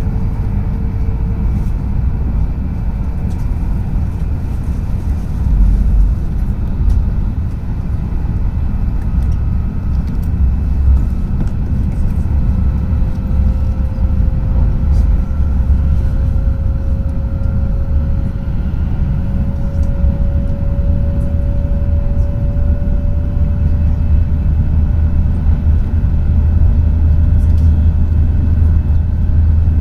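Tohoku Shinkansen train running at speed, heard from inside the passenger cabin: a steady low rumble with a faint thin tone that slowly rises in pitch through the second half.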